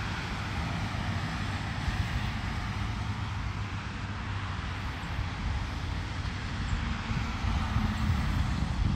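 Wind buffeting the microphone: a steady, gusty low rumble with a faint steady hum beneath it.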